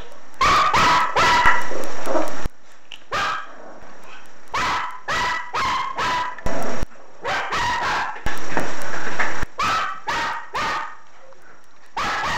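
Young dogs barking: sharp, high-pitched yaps in quick runs of two to four, about sixteen in all, with short pauses between the runs.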